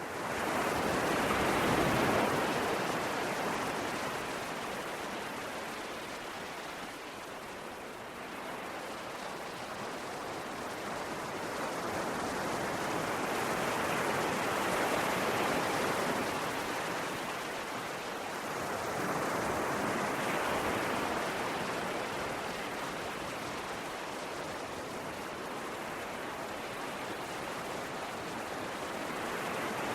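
Ocean surf: a continuous rush of waves that fades in at the start, then swells and ebbs a few times as waves break and wash back.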